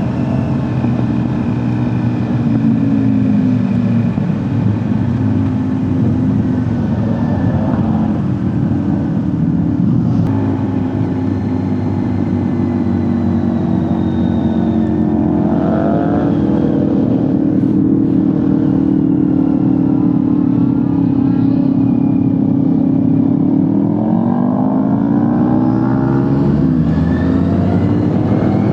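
Honda CBR650R's inline-four engine running under way at cruising speed, twice rising in pitch as it accelerates, about halfway through and again near the end, where the pitch drops sharply at a gear change. Wind and road noise rush underneath.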